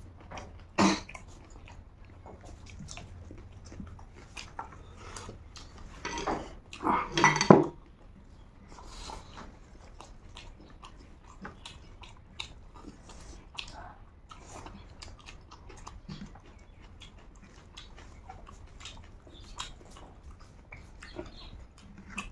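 Close-up eating sounds of rice eaten by hand: chewing, lip smacks and small wet clicks throughout. About six to seven and a half seconds in, a louder cluster of mouth and throat sounds stands out.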